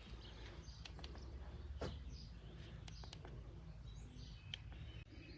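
Faint outdoor background with a steady low hum, a few short light clicks and knocks, and birds chirping faintly.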